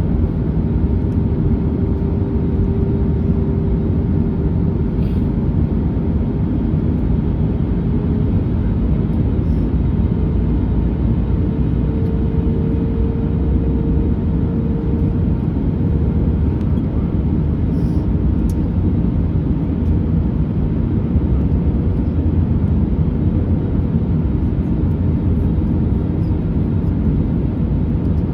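Cabin noise inside an Airbus A321neo on descent: a steady rumble of airflow and its Pratt & Whitney PW1100G geared turbofans. A faint humming tone edges up in pitch around the middle.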